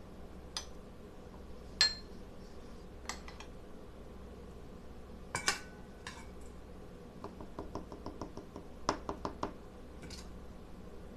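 Light metal clinks and knocks as small metal pieces are handled and set down, with one sharper ringing clink about two seconds in and quick runs of small taps in the second half.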